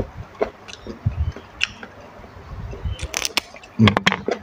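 A person eating at close range: chewing, with wet mouth clicks and smacks. A short run of sharper clicks comes about three seconds in.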